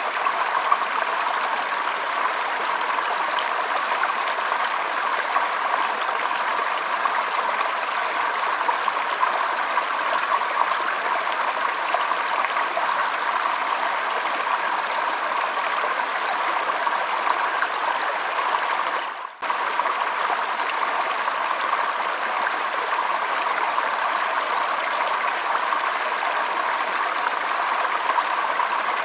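Shallow stream flowing and trickling in a steady rush of water, cutting out for an instant about two-thirds of the way in.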